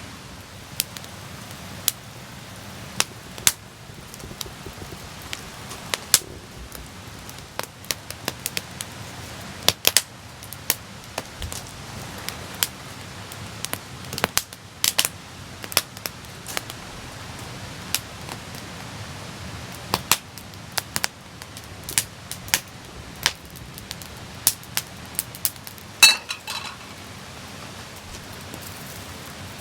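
Wood campfire crackling, with irregular sharp pops over a steady hiss. Near the end there is one louder, briefly ringing clink.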